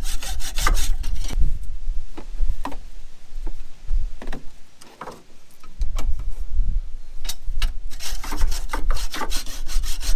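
Hand hacksaw cutting into a rusted steel strut mounting bolt in quick back-and-forth strokes. The strokes slow and pause briefly about halfway through, then pick up again fast near the end.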